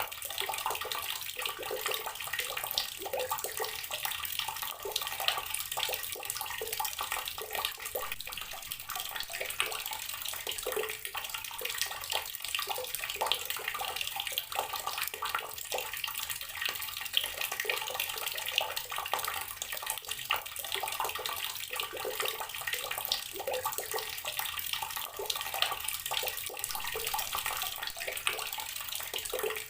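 Outdoor water tap running steadily, its stream splashing and bubbling as it falls.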